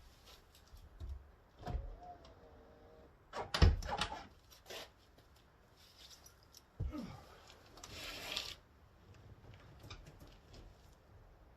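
Scattered knocks and clunks of handling, the loudest a sharp knock a little over a third of the way in, with a short creak and a brief hiss later; the engine is not running.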